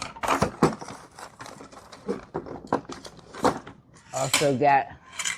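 Clattering knocks and crinkling as tools and packaging are handled, with a brief voice near the end.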